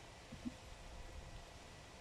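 Faint, steady rain noise, with a couple of soft low knocks about half a second in.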